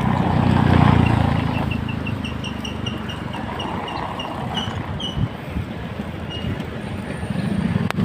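Wind rumbling on the microphone and road noise while riding a bicycle, loudest about a second in. Over it runs a quick series of short high pips, about five or six a second, for roughly four seconds.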